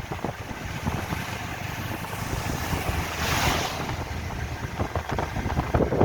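Wind buffeting the microphone over a low, uneven rumble from travelling by road, with a brief louder rush about halfway through.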